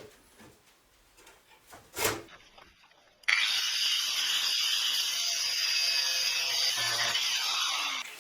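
A knock, then about three seconds in a power tool starts abruptly: a loud, steady, hissing grind, most likely an angle grinder working metal. It cuts off sharply near the end.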